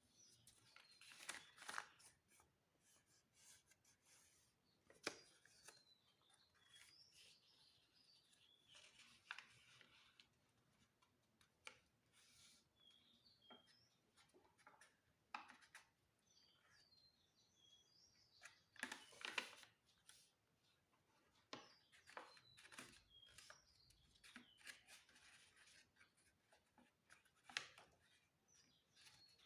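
A sheet of paper being folded and creased by hand: faint rustling broken by sharp crinkles and crackles every few seconds, the loudest about two seconds in and again past the middle.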